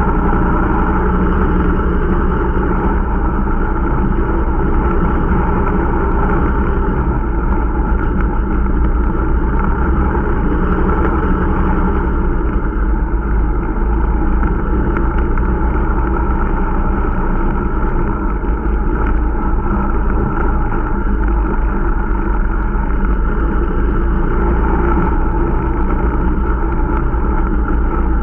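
Irbis Dingo T125 snowmobile's small single-cylinder four-stroke engine running steadily under way, at an even speed throughout, during its running-in.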